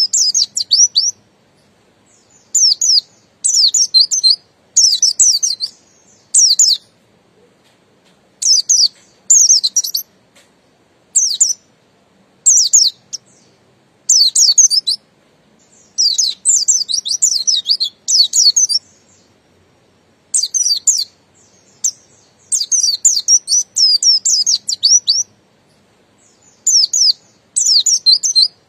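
Buxtoni white-eye (pleci) singing a series of short phrases of rapid, high twittering notes, about a second each, with brief pauses between them.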